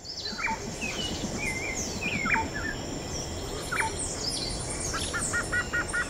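Several forest birds calling: sharp whistles that fall in pitch, a few short chirps, and a quick run of repeated notes near the end. A steady high-pitched buzz runs beneath them.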